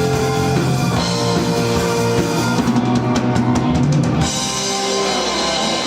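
Live rock band playing an instrumental passage with a drum kit under held chords; about three seconds in comes a quick drum fill of several hits, and then the bass drops out while a chord rings on.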